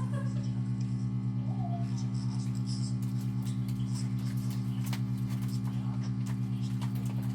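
Vacuum pump of a resin debubbler (vacuum degassing chamber) running with a steady electric hum while the resin degasses.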